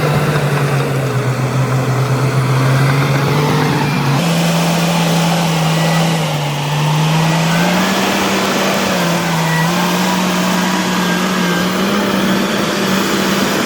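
Shantui DH17C2 bulldozer's diesel engine working under load, a loud steady run whose pitch steps up about four seconds in, then dips and rises again every couple of seconds as the load changes.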